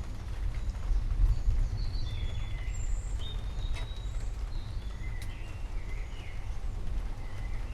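Forest birds chirping and whistling, scattered short calls from about two seconds in, over a steady deep rumble that is the loudest sound throughout.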